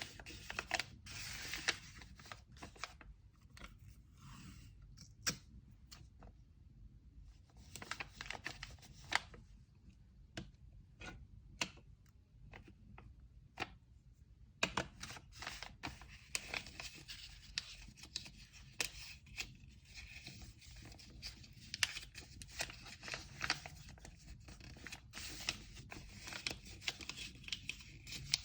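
Packing materials handled by hand: paper rustling and tearing, with many irregular taps and clicks of small items being set down and moved. The handling eases off twice, briefly.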